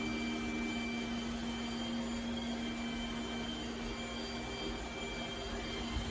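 Robot vacuum's motors running steadily: a constant hum with a thin high whine over a wash of airflow noise.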